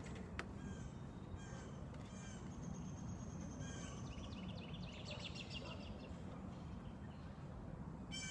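Wild birds calling: several short separate calls through the first half, then a quick run of chirps around the middle, over a steady low background noise.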